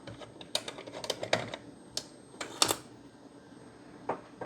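Irregular small clicks and taps of hand work on an Xbox One S during disassembly: a screwdriver and screws against the console's casing, a few knocks a second at times, with pauses between.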